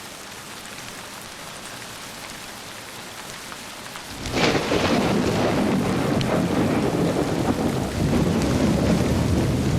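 Steady rain falling, then about four seconds in a thunderclap: a sudden crack followed by a loud, low rolling rumble.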